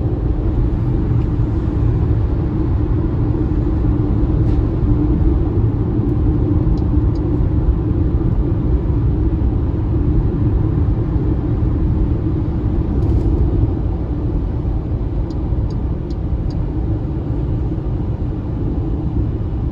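MG ZS EV electric SUV driving at steady speed: a continuous low rumble of road and tyre noise, with no engine note. A few faint ticks occur partway through.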